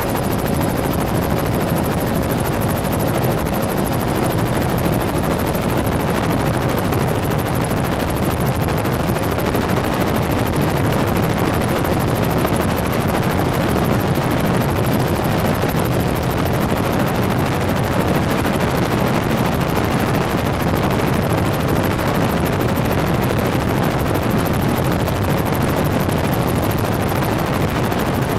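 Helicopter in flight, heard from inside the cabin: a steady, loud drone that does not let up, with a faint high hum in the first few seconds.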